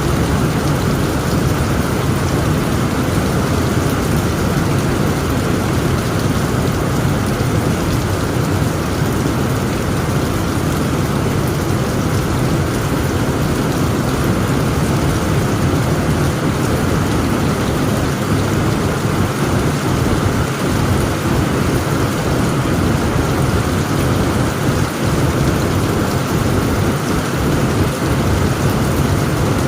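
Heavy rain drumming steadily on a tent roof, under a low, continuous rumble of thunder.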